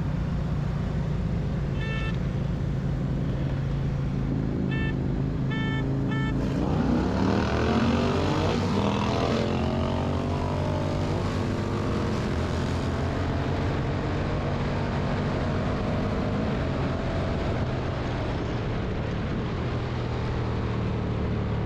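Several V-twin bagger motorcycle engines under way together, then accelerating hard at full throttle in a roll-on race, their pitch climbing together about six seconds in before settling into a steady high-speed drone. A few short beeps sound early on.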